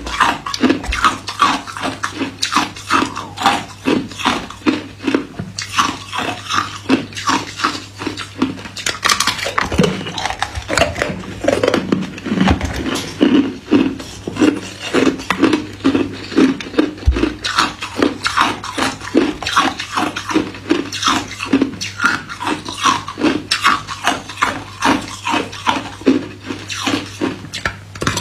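Close-up crunching of hard white ice cubes being bitten and chewed: a steady run of sharp cracks, about two or three a second.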